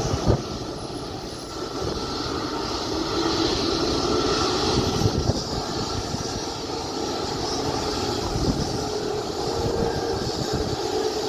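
Jet engines of a departing Boeing 767-300F freighter: a steady rumble with a faint held hum, with wind buffeting the microphone in low thumps, the sharpest just after the start.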